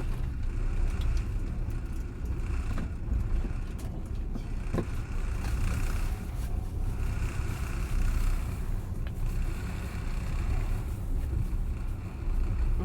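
Steady low rumble of a moving passenger train heard inside the carriage, with the wheels running on the rails and a few faint clicks and knocks.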